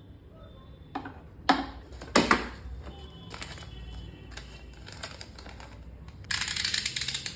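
Hard plastic and small tool pieces from a drill kit being handled. Three sharp clicks and knocks in the first couple of seconds are followed by lighter taps, then about a second of dense rattling near the end.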